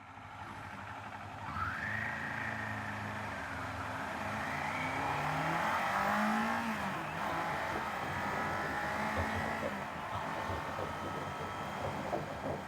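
Kawasaki Z500 parallel-twin engine pulling away and accelerating, its pitch climbing, dropping at a gear change about seven seconds in, then climbing again.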